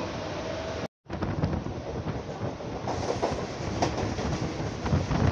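Mumbai suburban electric local train running on the track: a steady rumble with a faint whine. About a second in the sound drops out briefly, then comes back louder and more uneven, with wheel clatter, as another local train passes close alongside.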